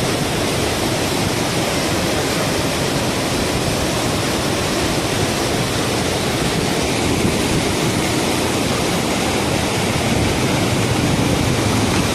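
Steady rushing wind noise buffeting the microphone while riding a bike.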